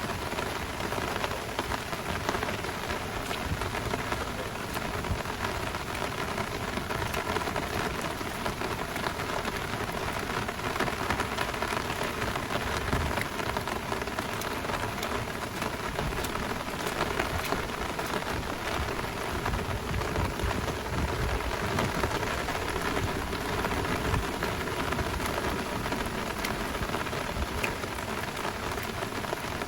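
Heavy rain falling steadily, a dense patter of drops striking close by.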